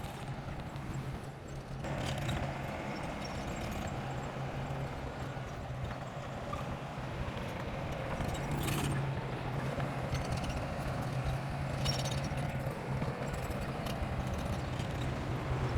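Bulldozer's diesel engine running steadily, with short bursts of metallic clatter from the machine now and then.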